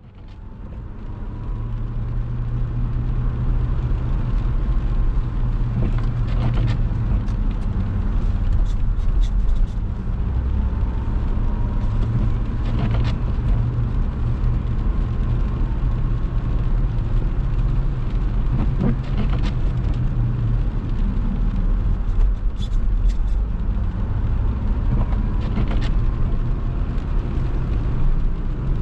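A car driving on a wet road, heard through a dash camera: a steady low rumble of engine and tyres that fades in over the first couple of seconds, with a few faint clicks.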